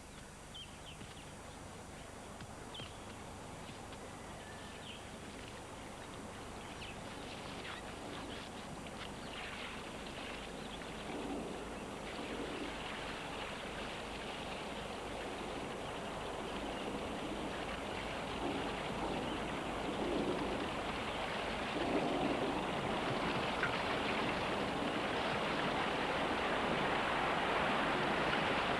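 Rushing water, a hiss that grows steadily louder throughout.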